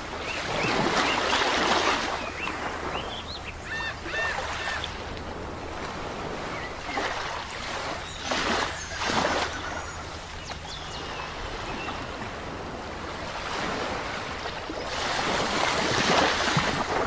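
Sea waves breaking on a shore, washing in three times, about a second in, around the middle and near the end. Between the first two, a bird calls with a quick run of short notes.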